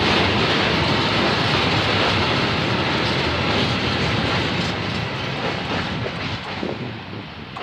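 Open coal wagons of a freight train rolling past on the rails, the wheels rumbling with some clickety-clack. The noise fades steadily as the last wagons go by and the train moves away.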